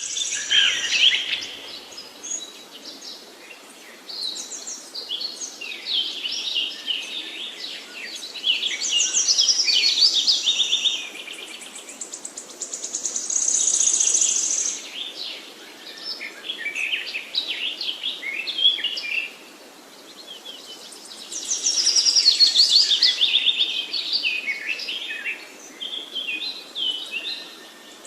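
Songbirds singing: phrases of rapid high chirps and trills that come and go every few seconds, the loudest about a third of the way in and again past two-thirds, over a steady background hiss.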